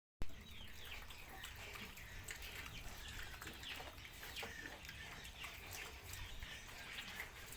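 Many short, high-pitched calls from small animals, each falling in pitch, overlapping a few times a second, with scattered light clicks.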